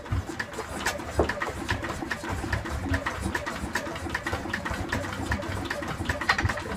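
Yanmar SB12 single-cylinder diesel being turned over without firing, pulsing evenly with clicks, while its injector fuel line is cracked open to bleed air from the fuel system.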